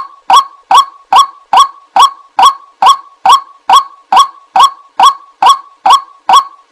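White-breasted waterhen giving its repeated 'kwak' call: short, loud, honking notes about two and a half a second, in an even, steady series.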